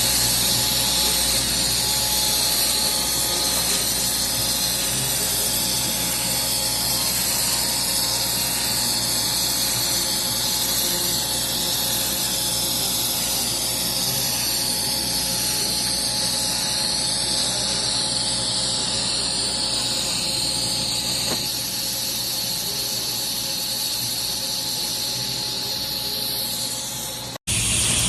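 TIG welding arc running with a steady crackling hiss and buzz, cutting out abruptly near the end.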